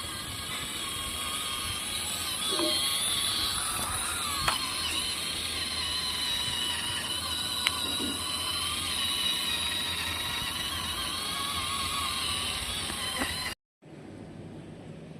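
Small electric motors and plastic gearboxes of handmade model tractors whining under load, the pitch wavering slightly, with a few sharp clicks. The sound cuts off abruptly near the end and is followed by a quieter steady hum.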